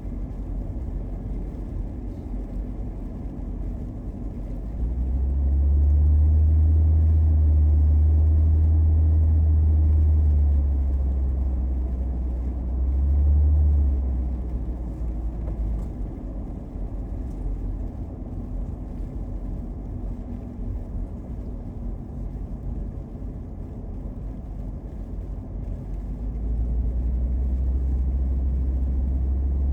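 Car driving, heard from inside the car: a steady low engine and road rumble that swells much louder about five seconds in, drops back after about ten seconds with a short swell just before fourteen, and swells again near the end.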